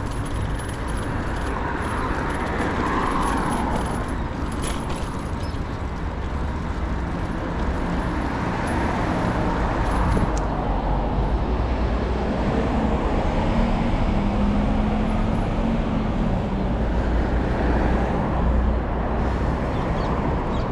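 City road traffic: cars and other motor vehicles passing in a steady wash of noise, with one engine's hum standing out about two-thirds of the way through.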